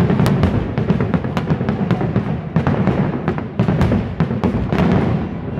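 Fireworks display with shells bursting in rapid succession, several sharp bangs a second over a continuous low rumble.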